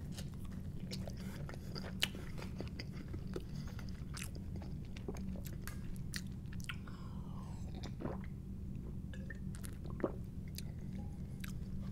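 Close-miked chewing of a bite of Brooklyn-style pizza: wet mouth clicks and crisp crust crunches over a low steady hum, with a sharper click about two seconds in and again near the end.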